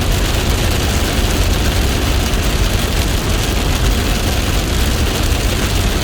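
Heavy rain falling hard, a loud, steady, dense hiss with a deep low rumble underneath.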